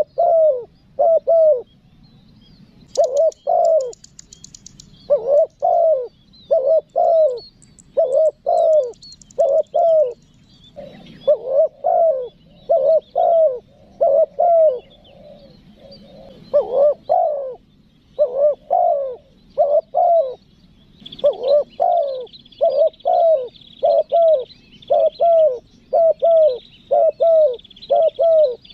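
Spotted dove (tekukur) cooing over and over in short notes, mostly in quick pairs, a call used to draw wild doves in. Faint high chirps of small birds sound behind it, with a brief rapid high buzz twice near the start.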